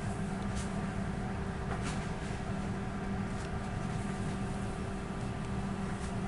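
Passenger train heard from inside the carriage: a steady hum over a low rumble, with a few faint ticks.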